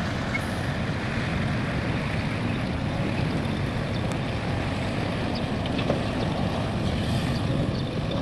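Heavy diesel earth-moving machinery running steadily, a continuous low rumble; typical of an excavator working while loading a dump truck.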